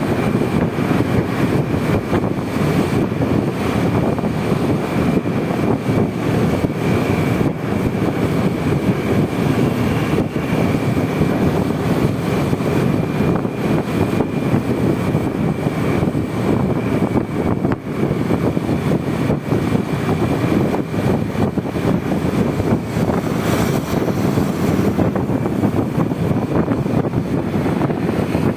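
Honda Vario 125 scooter's single-cylinder engine running steadily while riding in traffic, with road and wind noise and a faint steady high whine.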